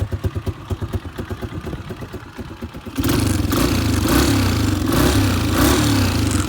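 Top Motor 150 four-stroke engine running through an add-on muffler: it idles with a steady pulse, then about halfway in it gets louder and is revved up and down several times.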